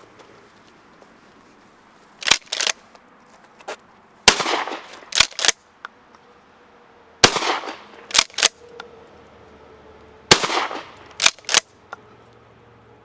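Pump-action shotgun fired three times, each shot ringing on briefly. About a second after each shot come two sharp clacks as the pump is racked back and forward, and one more pair of clacks comes before the first shot.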